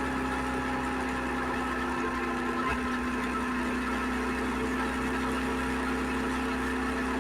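SVT650X motorcycle engine running steadily at idle, an even hum with no change in speed.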